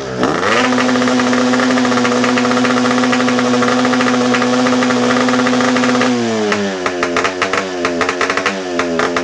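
Yamaha RX-King two-stroke single-cylinder engine revving through a modified open ('bobokan') exhaust: the revs climb quickly, are held high and steady for about six seconds, then drop and are blipped up and down several times.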